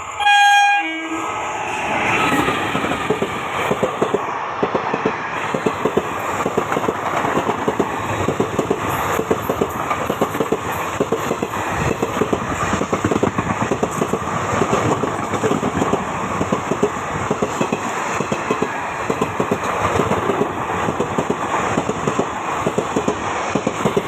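A short electric-locomotive horn blast about half a second in. Then the coaches of an express train run past at speed, loud, their wheels clattering rapidly over the rail joints.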